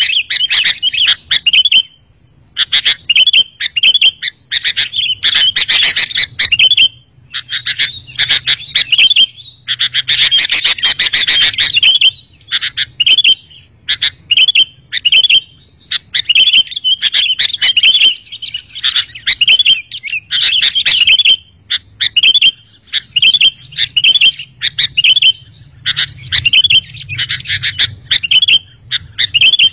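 Sooty-headed bulbul (kutilang) calling continuously: a loud, dense run of short, sharp chirps in quick succession, with only brief pauses.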